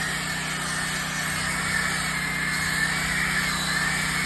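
Power sander with a freshly changed sanding pad running steadily while sanding a log wall, a constant motor hum with a high-pitched grinding hiss.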